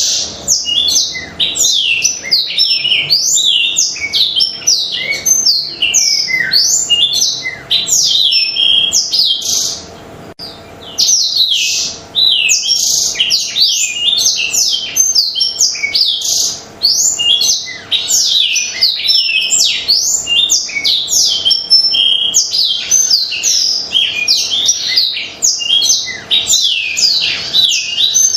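Blackthroat (black-throated canary) in full, non-stop song: a long run of fast chirps and rapidly sweeping high trills, breaking off briefly about ten seconds in. A faint steady hum lies underneath.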